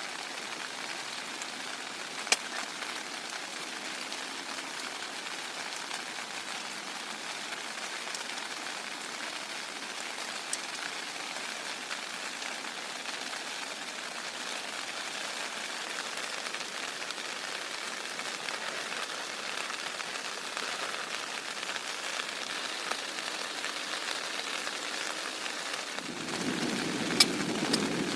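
Heavy rain falling steadily, with an occasional sharp drop hit. Near the end a low rumble comes in and the sound gets louder.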